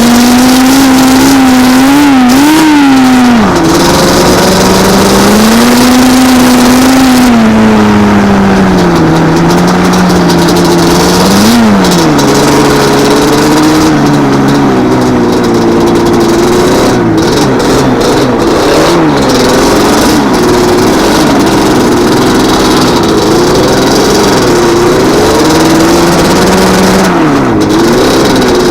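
Yamaha Banshee 350's twin-cylinder two-stroke engine, loud, revving up and down over and over, its pitch climbing and dropping with each blip of the throttle.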